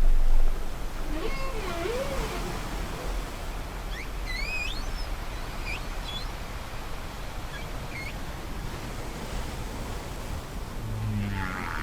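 Whale song: sliding, wavering calls, low moans and higher rising squeals, heard several times over a steady wash of sea surf.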